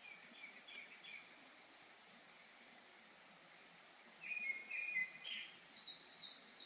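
Forest birds singing: a few soft chirping phrases at the start, then louder, quicker phrases in the second half, the last ones higher-pitched, over a faint steady hiss.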